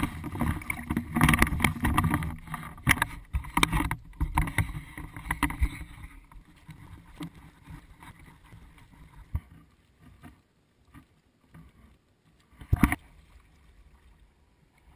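Water splashing and the inflatable lounge bag rustling and bumping as it is paddled across the water. It is busy for about the first six seconds, then quieter with scattered splashes and one loud bump near the end.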